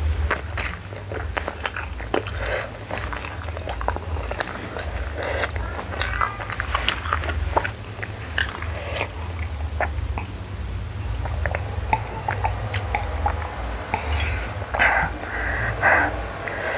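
Close-miked chewing of instant noodles: many short, irregular wet mouth smacks and clicks.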